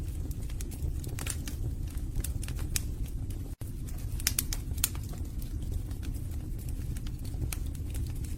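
Wood fire burning in a fireplace: logs crackling and popping in irregular sharp snaps over a steady low rumble of the flames, with a split-second dropout a little past the middle.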